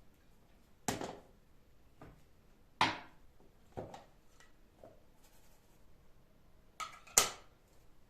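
Objects being handled and set down on a hard surface: five separate sharp knocks and clatters, the loudest a double knock near the end.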